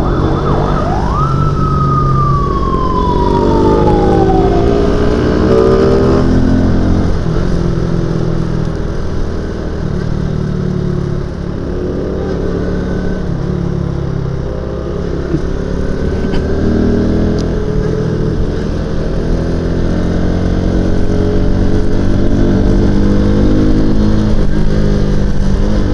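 Euro Motor Marvel 130i motorcycle engine pulling along at road speed, its pitch climbing in several runs of acceleration, with wind noise across the camera's microphone. About a second in, a single siren-like tone jumps up and then slides slowly down over a few seconds.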